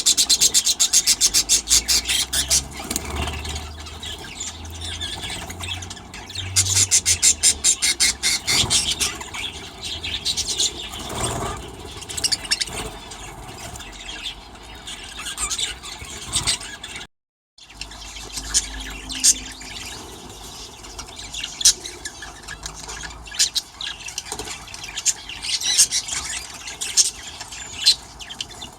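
Budgerigars in an aviary chirping and squealing, with two bursts of fast, rapidly repeated high calls, one at the start and one about a quarter of the way through, and scattered single chirps in between.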